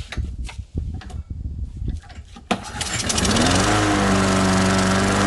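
A few light knocks and clicks, then about two and a half seconds in a small lawn mower engine fires up, rises in pitch and settles into a steady run. It is being bench-tested with a freshly cleaned carburetor and the air box off.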